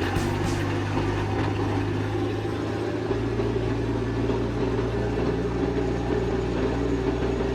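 An engine running steadily with a low hum, its low tone shifting about three seconds in.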